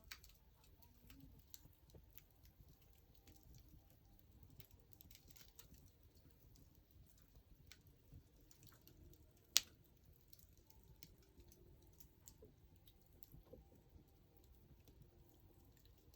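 Wood fire crackling faintly: scattered small crackles, with one sharp pop a little past halfway.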